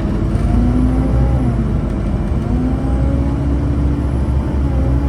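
Scania N230UB Omnicity bus's five-cylinder diesel engine pulling away under load: its note climbs, falls about a second and a half in as the automatic gearbox shifts up, then climbs again.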